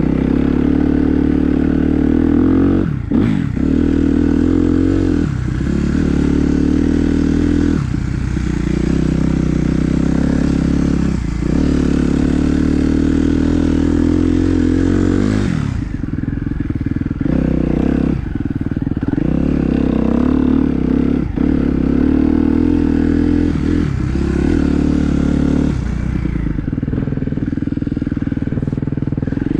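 Dirt bike engine running hard while riding, its note dropping sharply and climbing again every two to three seconds as the throttle is rolled off and back on.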